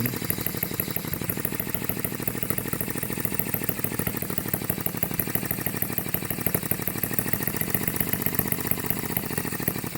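Stirlingkit HM-01 model hit-and-miss gas engine running steadily with a fast, even clatter.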